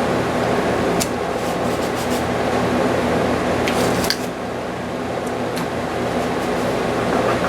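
Steady hum and rush of a shop fan running, with a few faint ticks about a second in and again around four seconds in.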